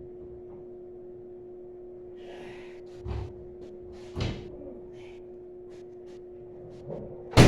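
A few knocks and clunks over a steady low hum, the loudest a sharp bang near the end.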